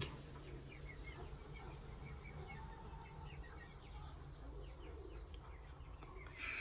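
Faint, scattered short bird chirps over quiet outdoor ambience, with a brief rustle near the end.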